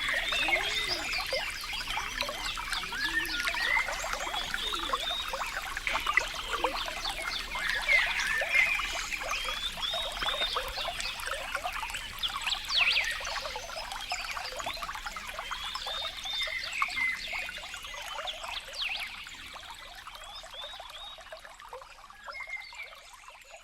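Water trickling and gurgling, full of short bubbling plinks, fading out gradually over the last several seconds.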